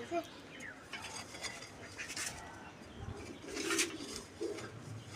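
Soft, intermittent scraping of furrows being drawn in garden soil for sowing seeds, with a pigeon cooing faintly.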